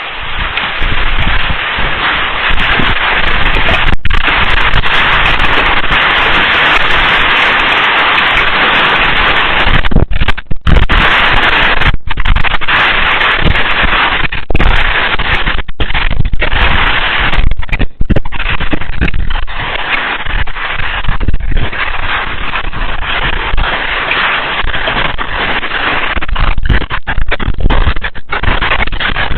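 Heavy rain pelting down hard, a loud dense crackling hiss of drops striking surfaces. The sound breaks off for a moment a few times, around ten seconds in and again near eighteen.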